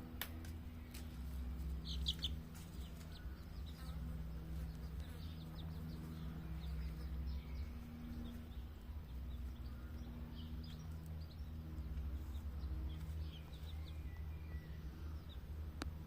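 Bantam chicks peeping: many short, high chirps scattered throughout, over a steady low hum.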